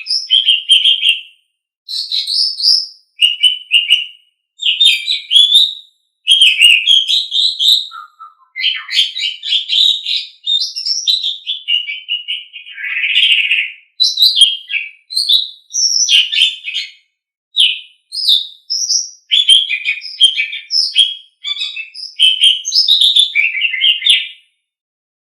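Asian pied starling (jalak suren) singing a long run of varied chattering, whistled and grating phrases, in bursts of one to two seconds with brief silent gaps. The song stops shortly before the end.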